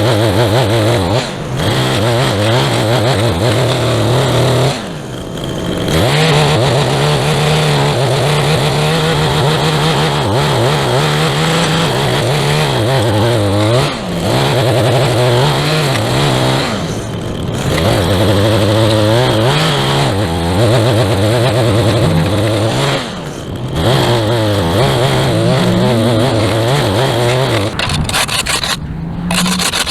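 Small two-stroke engine of a handheld gas yard tool running at high throttle, its pitch wavering up and down, easing off briefly about five times.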